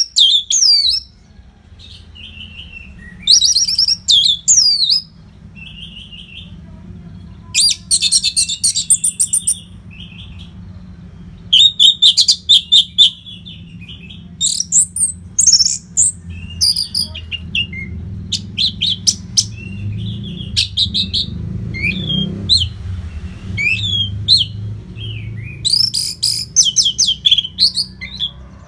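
Orange-headed thrush singing in loud, rapid, high-pitched phrases of one to two seconds each, with short gaps that close up in the second half, over a steady low hum.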